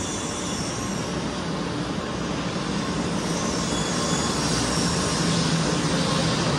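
Shinkansen 500 series train pulling out of the platform, its running noise and a steady hum growing slowly louder as it picks up speed.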